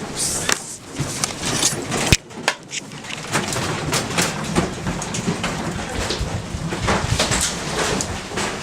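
Hurried footsteps and clatter: a dense run of irregular knocks and clicks over a rustling hiss, as people rush downstairs during a strong earthquake.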